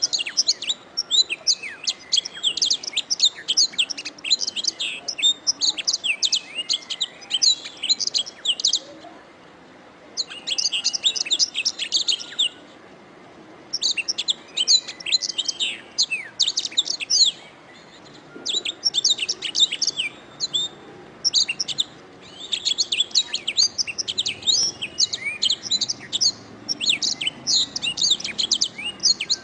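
Domestic canary singing: long, fast phrases of rapid, high chirps and trills, broken by several pauses of about a second between phrases.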